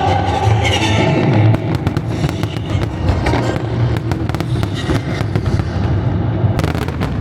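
Fireworks cracking and popping in quick succession over music; the crackle starts about a second and a half in and comes thickest near the end.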